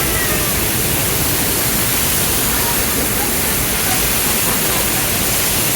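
Steady rush of a waterfall: a loud, even wash of falling water that does not change.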